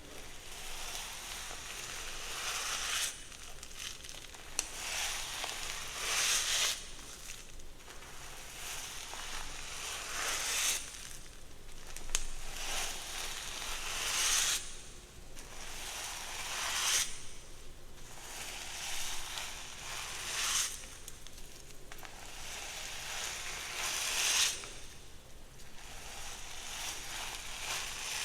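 Long hair being brushed in slow, even strokes, about one every two to three seconds, each a rasping hiss as the bristles drag through.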